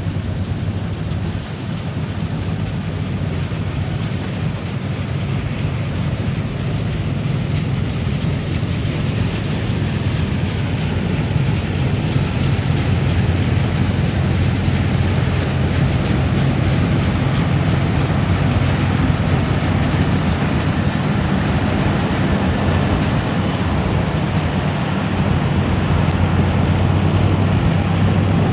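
Combine harvester running steadily: a low engine drone with a hiss of machinery over it, getting gradually louder over the first dozen seconds.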